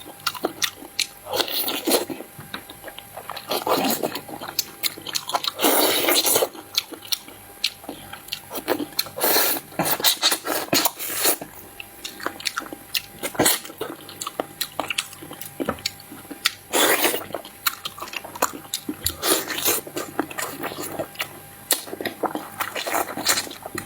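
Close-miked eating: a person biting and chewing food, with many sharp clicks and repeated crunching bursts.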